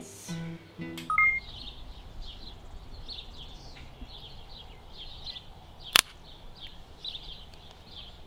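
A bird chirping over and over outdoors, short high calls about two a second, after guitar music fades out in the first second and a brief two-note tone. A single sharp click about six seconds in is the loudest sound.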